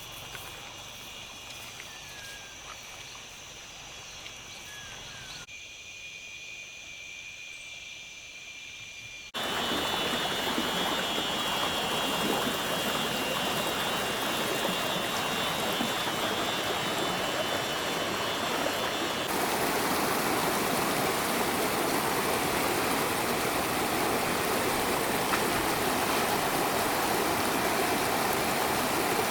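Steady high insect drone in a quiet forest, then about nine seconds in a sudden change to the loud, steady rush of flowing water from a stream or waterfall, which carries on to the end, the insect drone dropping out about halfway through.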